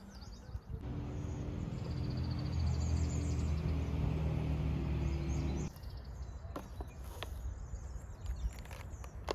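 A loud, steady, low mechanical hum that cuts off suddenly about six seconds in, followed by quieter outdoor ambience with scattered sharp clicks and faint bird calls.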